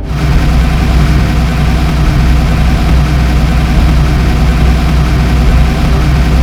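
A heavy vehicle engine running steadily at idle with a deep hum. It starts suddenly.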